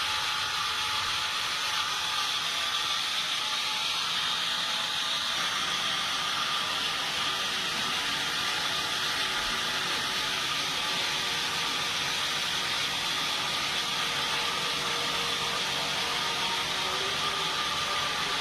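Sawmill machinery running steadily, a constant noise with a faint high whine and no breaks or knocks.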